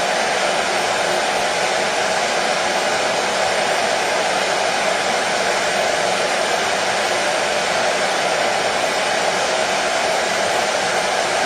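Hair dryer running steadily, a constant whooshing hiss of fan and airflow with a hum around its motor pitch, played as white noise to soothe a colicky baby to sleep.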